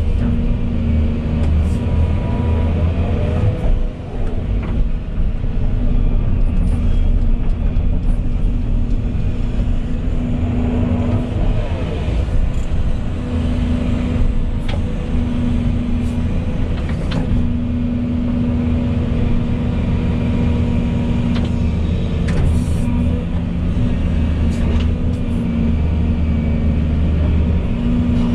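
Volvo EC220E crawler excavator's diesel engine running steadily under working load, with scattered light clicks and knocks.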